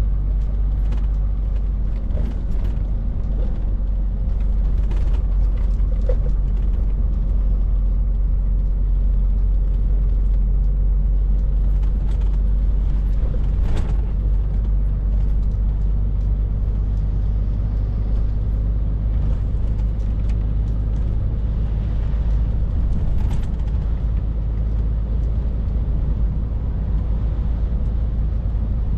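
Scania R450 lorry's six-cylinder diesel engine droning steadily at cruise with road noise, and a few brief clicks and knocks scattered through.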